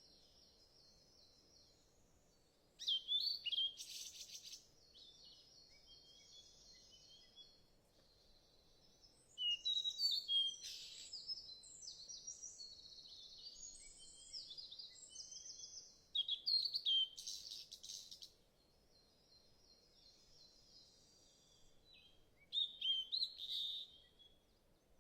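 Small birds chirping and trilling in bursts of quick, high repeated notes, with four louder bursts about six seconds apart and softer calls in between.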